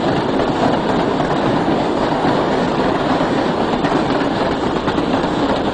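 A train running along its track, making a steady noise with no breaks.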